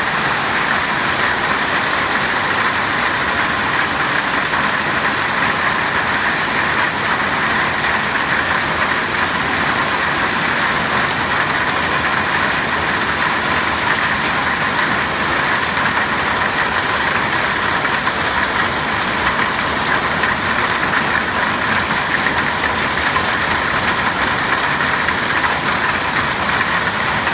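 Heavy hail and rain falling together in a dense, loud, steady rush of impacts, with no letting up.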